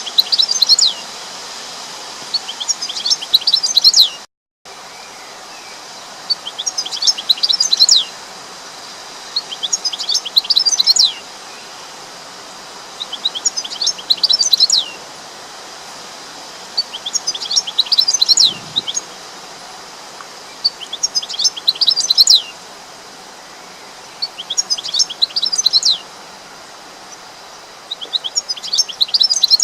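A bird singing, repeating a short burst of quick, high chirps about every three to four seconds over a steady background hiss. The sound cuts out completely for a moment about four seconds in.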